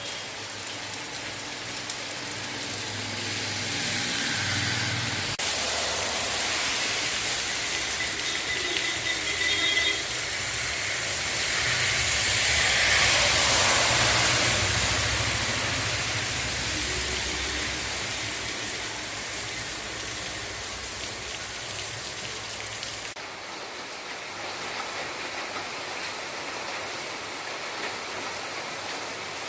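Heavy rain falling in a steady hiss, swelling louder near the middle. The sound changes abruptly about five seconds in and again near the end.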